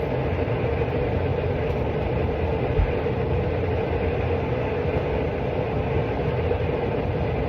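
A machine or appliance running: a steady whirring hum with a constant mid-pitched tone over a low rumble.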